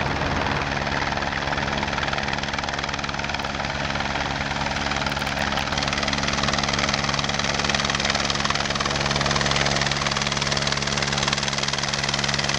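Helicopter flying low, its rotor and engine giving a steady drone. It is frost fighting, stirring the cold air to raise it above freezing.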